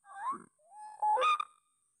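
White-breasted waterhen (ruak-ruak) calling: a short rising note, then a longer, louder harsh call about a second in. A steady thin high whine runs underneath.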